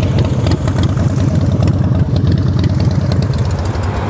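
Harley-Davidson Sportster 1200's air-cooled V-twin idling steadily through its factory exhausts, a low, even throb.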